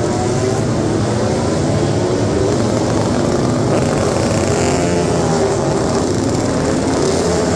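A vehicle engine running steadily, its droning pitch wavering slightly up and down.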